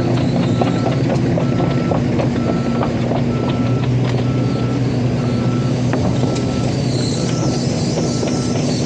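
Heavy diesel machinery running steadily, with a warning alarm beeping evenly about once every three-quarters of a second and scattered clicks and knocks over the engine.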